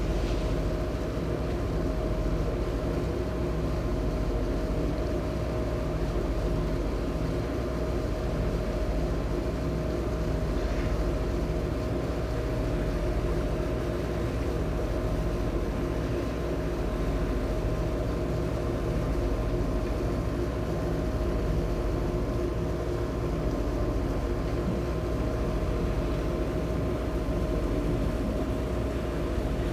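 Engines of the high-speed passenger ferry Sun Liner 2 running steadily under way, heard on board as a constant drone with a steady whine.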